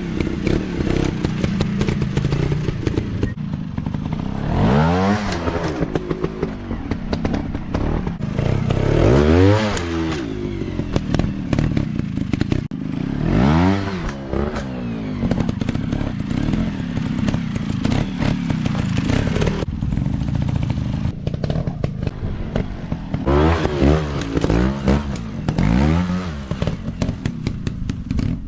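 Dirt bike engines revving hard and easing off in repeated bursts, the pitch climbing and dropping several times, with frequent knocks and clatter throughout.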